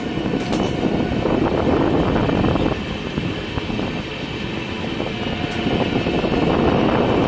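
Passenger express train running through a station, heard from an open coach doorway: a steady rush of wheels on rail and air noise, easing a little for a second or two midway.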